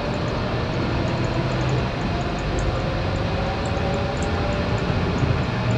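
Scania K230UB single-deck bus running under way: a steady engine and driveline drone with a faint whine that rises slowly in pitch as it gathers speed.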